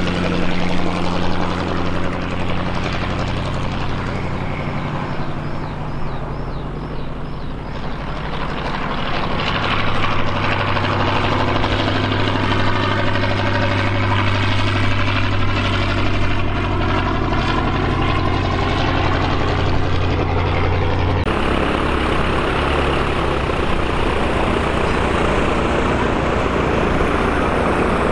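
Light aircraft running nearby: a steady engine and propeller hum with pitched drone tones. The sound changes abruptly about three-quarters of the way through.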